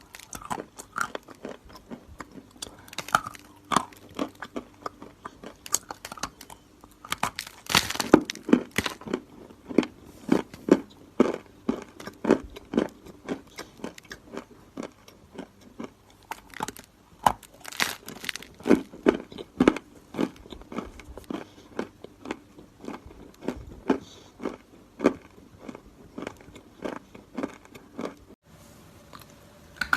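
A person biting and chewing round pieces of edible chalk: a long series of dry, sharp crunches and crackles, coming in dense runs about eight and eighteen seconds in.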